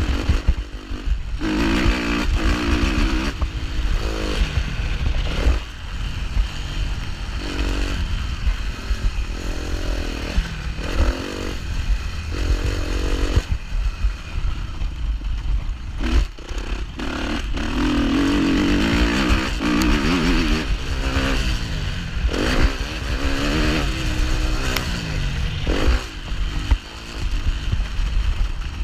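Suzuki 250 four-stroke motocross bike engine revving hard and easing off again and again as it is ridden round a track. Its pitch climbs and drops every second or two over a continuous low rumble.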